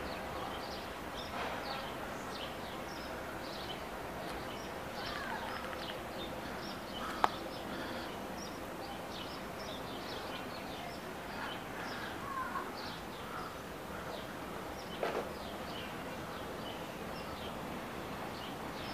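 Many small birds chirping on and off over a steady background hum, with one sharp click about seven seconds in.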